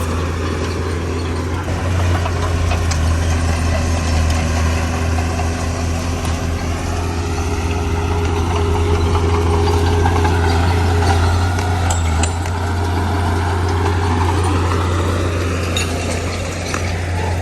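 Heavy diesel engine of construction machinery running steadily. Its tone rises and falls slowly about halfway through, and a few faint clicks and knocks sound over it.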